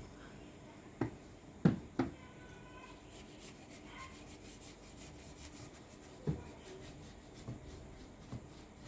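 A few scattered light knocks and clicks of parts being handled, three close together about a second or two in and quieter ones later, with faint rubbing between.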